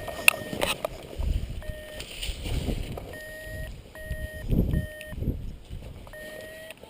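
Gusty wind buffeting the microphone in uneven swells, with a string of short electronic beeps repeating every second or so.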